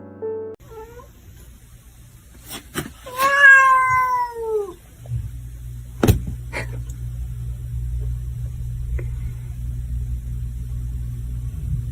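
A domestic cat gives one long meow, about a second and a half, falling in pitch, with a few sharp clicks just before it and a sharp knock soon after. From about halfway through a steady low rumble sets in.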